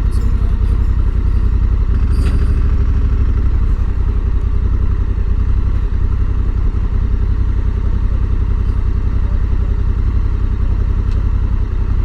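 Honda Africa Twin motorcycle's parallel-twin engine running steadily as the bike rides along, a loud, even low rumble.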